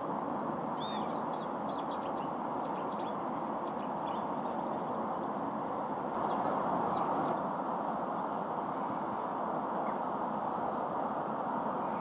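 Small bird chirping, strings of short high notes for the first seven seconds or so, over a steady rushing background noise.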